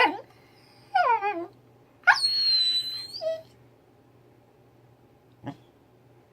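Animal-sound toy ball playing short recorded animal calls: three in quick succession, a falling one, a wavering falling one, then one that rises and holds a high steady note. A single light knock follows about five and a half seconds in.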